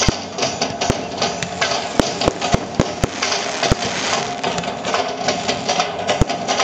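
Aerial fireworks bursting: a dense, continuous crackle with sharp bangs every second or so, four or five coming in quick succession about two to three seconds in.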